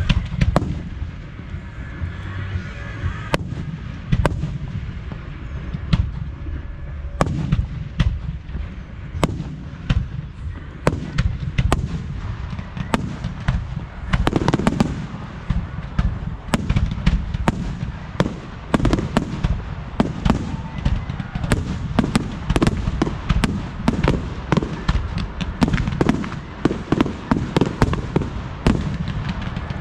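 Display fireworks going off: a rapid series of sharp bangs, about one a second at first and coming much thicker from about halfway through, over a continuous low rumble.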